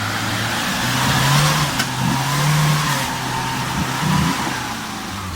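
Off-road 4x4 engine revving under load, its pitch climbing and falling several times, under a broad rushing hiss and a few short knocks.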